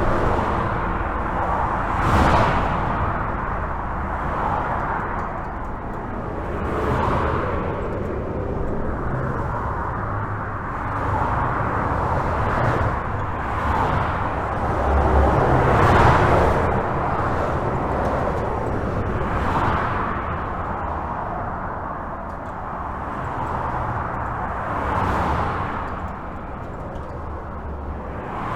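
Steady highway traffic heard from under a bridge: a continuous tyre-and-engine rush with low rumble, as individual vehicles pass in swells every few seconds, the loudest about two seconds in and around sixteen seconds in.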